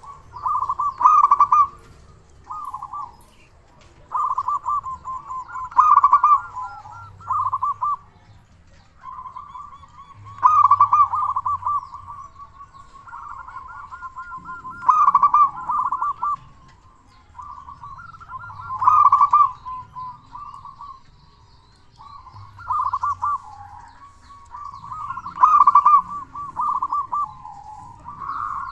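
Zebra dove (perkutut) cooing repeatedly, a loud trilled, warbling coo phrase every few seconds.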